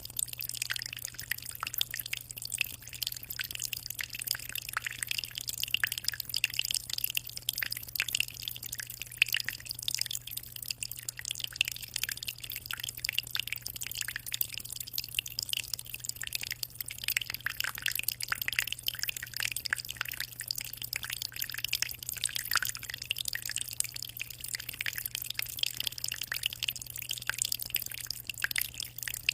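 Water in a 60-litre aquarium trickling and splashing continuously, a dense patter of small droplets. A low steady hum runs underneath.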